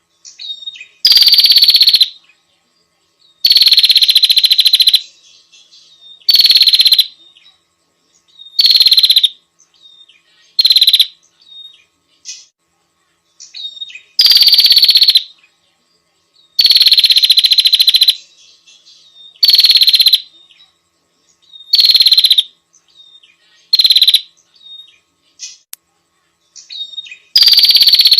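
Small songbird song from a masteran (bird-tutoring) recording: loud, dense, high-pitched trilled phrases about a second long, each sliding slightly down in pitch, repeated every two to three seconds, with faint short chirps in the gaps between.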